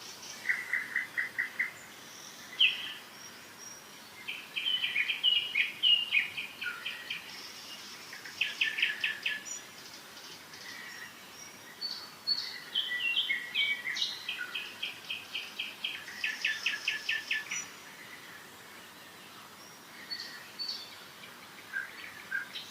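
Songbirds singing: short phrases of rapidly repeated notes, about ten a second, come every few seconds, mixed with single chirps, over a faint steady background hiss.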